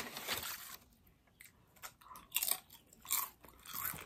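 Tortilla chips being bitten and chewed: crunching in several short, irregular bursts.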